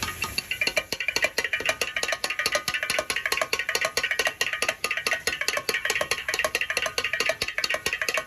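Fast, rhythmic percussive clatter: a dense, even run of sharp strikes, several every second, with a ringing tone to them.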